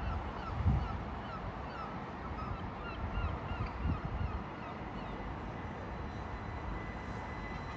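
Southeastern Class 375 Electrostar electric multiple unit pulling out of the platform: a steady low rumble of wheels and running gear. A run of short high chirps sounds over the first half, and a faint steady whine comes in near the end.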